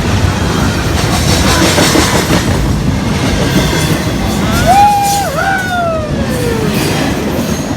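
Train led by two EMD diesel locomotives passing close by, with a steady loud rumble of engines and wheels. About five seconds in, a locomotive air horn sounds a short blast, then a longer one that falls in pitch as it passes.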